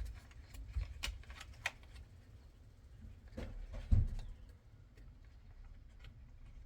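Light plastic clicks and taps as steering-wheel paddle-shifter parts are handled and slid onto their clips, with one louder dull knock about four seconds in.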